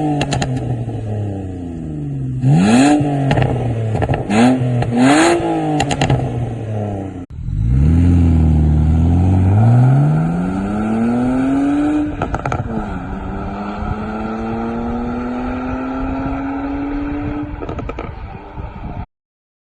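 BMW 325i straight-six with a performance rear silencer and a pops-and-crackles tune, blipped sharply three times, with pops and crackles from the exhaust as the revs fall. About seven seconds in, after a cut, it accelerates with a steadily rising note, drops briefly at a gear change, then climbs again until the sound cuts off.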